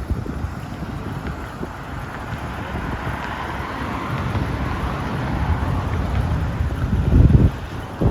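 Wind buffeting the microphone over a low rumble, with a strong gust about seven seconds in.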